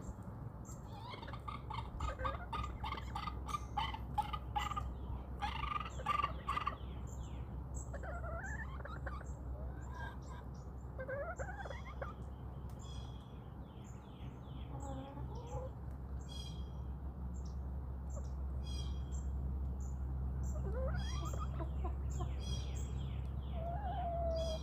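Backyard chickens calling in short notes that glide up and down, with small birds chirping over a steady low rumble.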